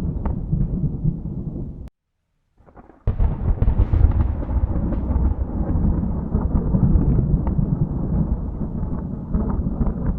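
Thunder rumbling low and continuously. It breaks off to silence about two seconds in, then a new peal starts sharply about a second later and rolls on.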